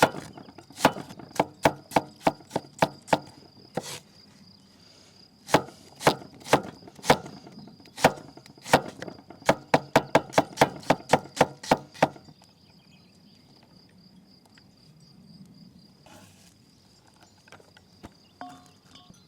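Chopping on wood: a run of sharp strikes at about two a second, coming faster near the end and stopping about twelve seconds in. A steady, high insect chirr runs underneath.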